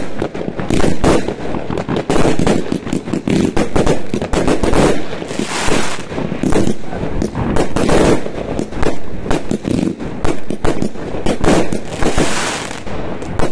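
New Year's Eve fireworks and firecrackers going off in rapid, overlapping bangs with no let-up. Twice, about halfway through and again near the end, the bangs give way to a stretch of crackling hiss.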